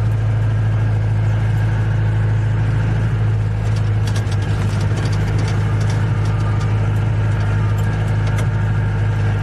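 Safari vehicle's engine running steadily with a strong, even low note, unchanging in pitch.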